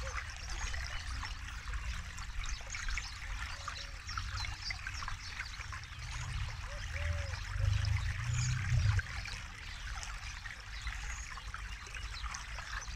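Forest river flowing steadily over stones, a continuous trickling and babbling, with a low rumble that swells briefly a little past the middle.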